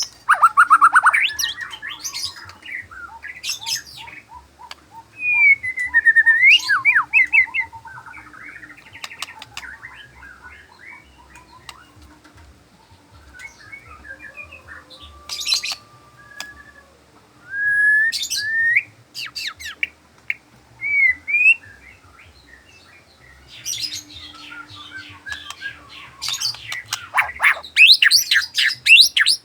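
White-rumped shama (murai batu) singing: varied phrases of clear whistles, swooping notes and rapid trills, in loud bursts separated by quieter pauses, with the fullest and busiest singing near the end.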